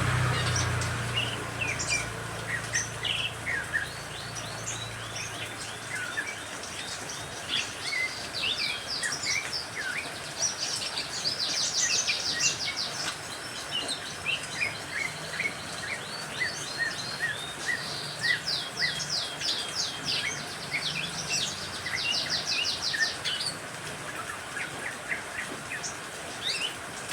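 Several songbirds chirping and trilling over a steady background hiss, with fast rattling trills of about ten notes a second around the middle of the stretch. A low rumble fades out in the first few seconds.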